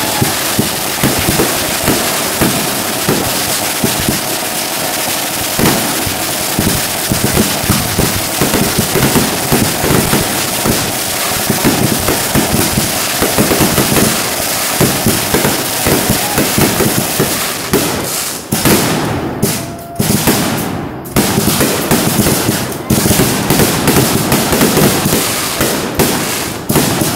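Aerial fireworks bursting overhead in a dense barrage: many overlapping bangs and crackling almost without a break, with a few short lulls about two-thirds of the way through.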